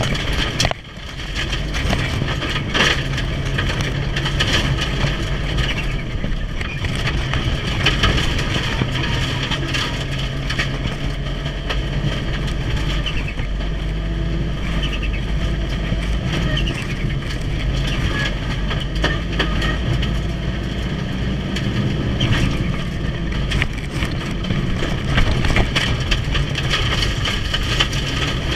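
Mitsubishi Lancer Evolution's turbocharged 2.0-litre four-cylinder engine pulling hard at speed, with a brief drop in loudness about a second in.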